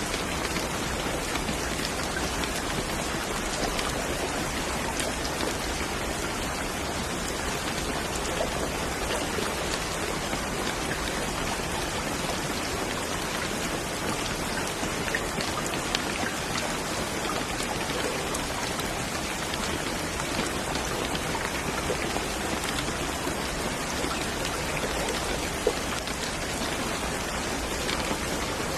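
Steady rain falling, an even hiss scattered with many close drop ticks.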